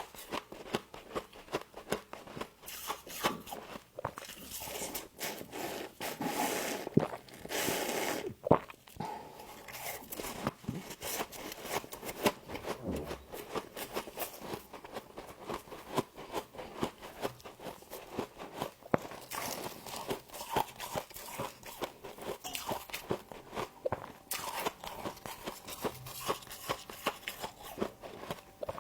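Humidifier frost being bitten and chewed close to the microphone: a dense, irregular run of crisp crunches.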